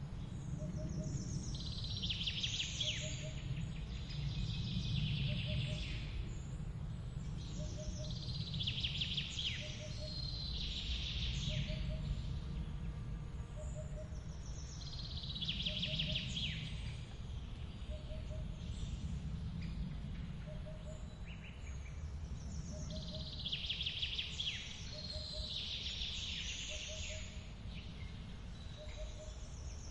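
Forest waterfall ambience: a steady low rush of falling water, with songbirds singing short phrases every few seconds. A faint short note repeats about every two seconds.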